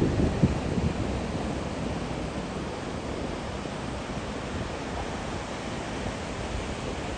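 Steady hiss of ocean surf with wind, louder in the first second and then settling to an even level.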